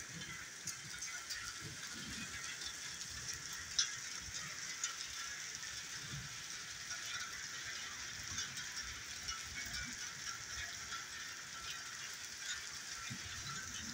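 Heavy rain falling steadily, a hiss flecked with small drip and splash ticks, with one sharper tap about four seconds in.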